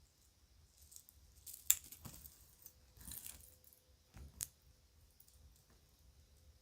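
Kids' jewelry clinking and jangling as it is handled: a few sharp clinks, the loudest a little under two seconds in, a short rattling jangle around three seconds in, and another sharp clink past four seconds.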